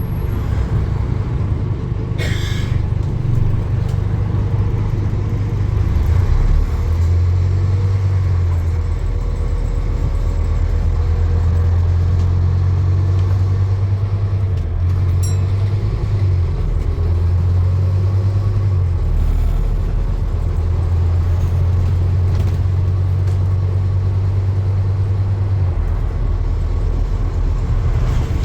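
A motor vehicle running with a steady low rumble; its deep drone fades and returns a few times.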